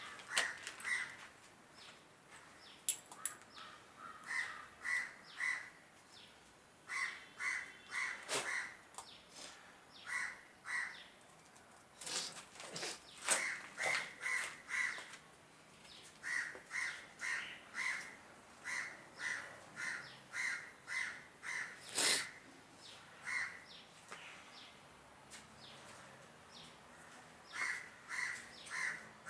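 A bird calling over and over, in runs of three or four short calls, with a few sharp clicks or knocks among them.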